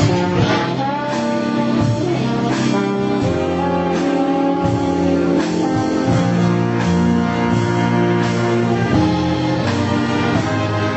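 Live dance band playing a slow love ballad, brass with a trombone feature over guitar and rhythm section, with held notes.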